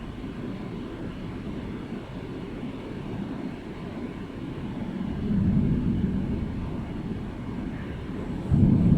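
Thunder rumbling low and continuously. It swells about five seconds in, then a sudden louder peal breaks in near the end.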